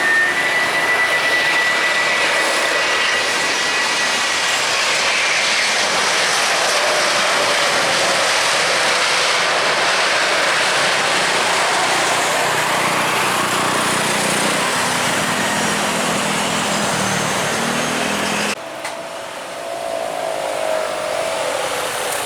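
Jet airliner's engines heard at close range: a loud, steady jet noise with a high whine in the first few seconds. The sound cuts off abruptly near the end, giving way to a quieter engine sound.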